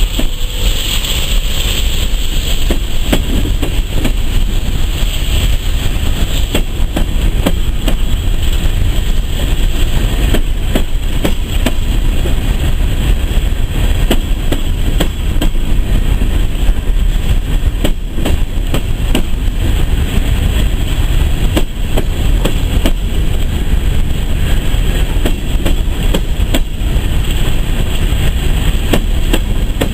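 Empty steel coal hopper cars of a freight train rolling steadily past, with a constant rumble and a rapid run of clicks as the wheels pass over the rail joints.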